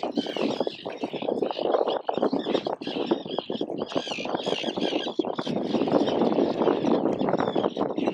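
Gulls calling over and over in short, curved cries, over a continuous rough, crackling noise.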